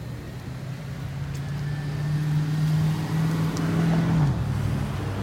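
A motor vehicle engine running, its steady hum growing louder and then dropping in pitch about four seconds in, as a vehicle passing close by does.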